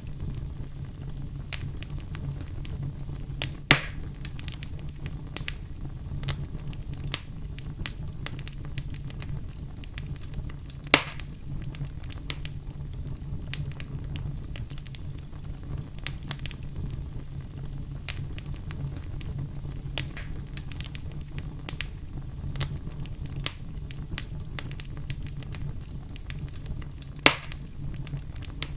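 Wood fire burning in a fireplace: a steady low rumble of the flames with constant small crackles and three louder pops, about four seconds in, about eleven seconds in and near the end.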